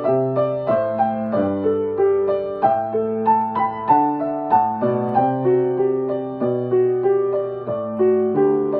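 Piano-voiced keyboard playing a Hokuriku Shinkansen train melody worked out by ear: a gentle tune over held chords, at a steady, unhurried pace.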